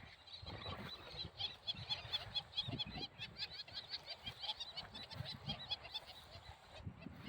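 Birds chirping in a rapid series of short, high chirps, about four or five a second, over a faint low rumble.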